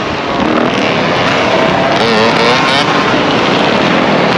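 Several dirt bike and ATV engines running and revving together in a group ride, their pitch rising and falling, with voices mixed in.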